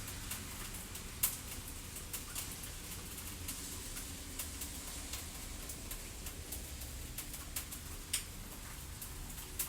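Fireplace crackling: irregular sharp pops and snaps over a low steady rumble, with the loudest pops about a second in and near the end.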